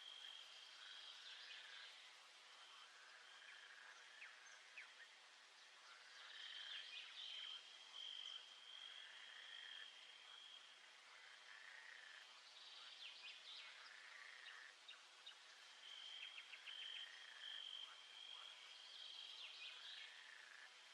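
Faint nature-sounds ambience of animal calls: a steady high trill, short arched calls repeating about once a second, and a quick burst of rapid chirps about every six seconds.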